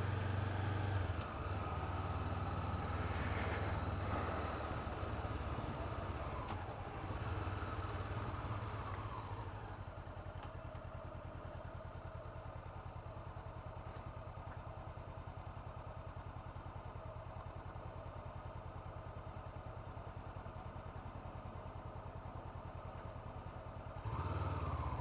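2017 Honda CB500F's parallel-twin engine running during a ride, with wind and road noise in the first ten seconds. About ten seconds in it drops to a quieter, steady running with an even pulse.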